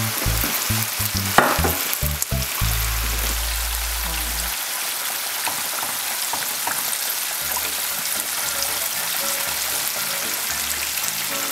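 Steady sizzle of food frying in hot oil: shrimp fried rice with peppers and onions being stir-fried and turned with a spatula just after soy sauce goes in, and battered haddock bubbling in frying oil.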